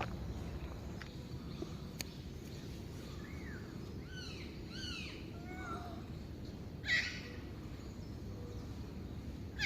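Wild birds calling: a quick series of short, arched chirps, then a loud harsh call about seven seconds in and another at the end, over low background noise.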